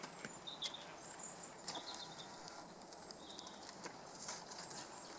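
Faint outdoor ambience with birds chirping in short high calls, and a few light clicks.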